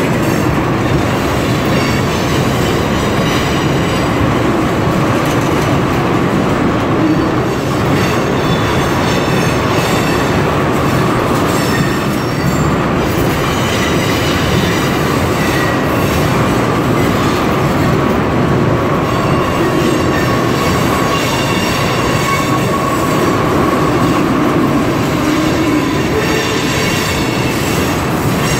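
Freight train tank cars rolling past close by: a steady, loud rumble of steel wheels on rail, with high wheel squeal coming and going over it.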